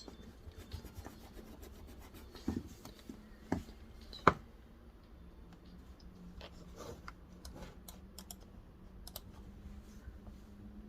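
Small desk sounds while studying: scattered light clicks, taps and rubbing, with one sharp tap about four seconds in, over a faint steady hum.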